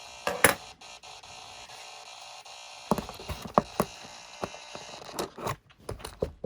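Scattered small clicks and knocks of small parts being handled on a workbench, over a steady background hiss; the loudest knock comes about half a second in.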